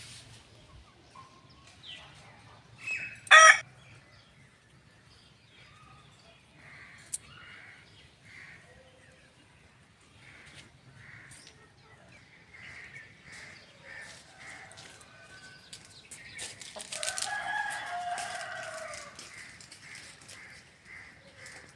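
A rooster crowing once, a long arching call about seventeen seconds in, with small birds chirping over and over. A short, sharp, loud sound comes about three seconds in.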